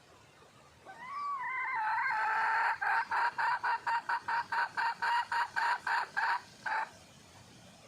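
Junglefowl hen calling to attract a male: a wavering drawn-out note starts about a second in, then breaks into a rapid run of about fourteen short clucks, some three to four a second, that stops shortly before the end.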